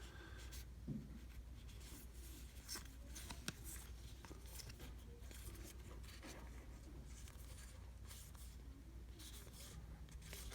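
Faint sliding and light tapping of baseball trading cards being flipped through by hand, with a few soft clicks scattered throughout.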